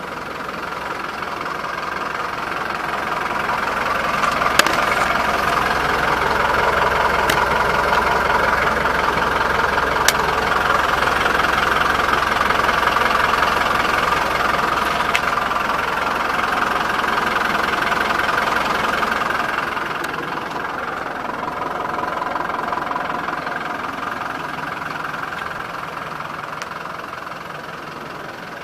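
Toyota Dyna truck's engine running, its sound swelling over several seconds and then easing off, with a few sharp clicks along the way.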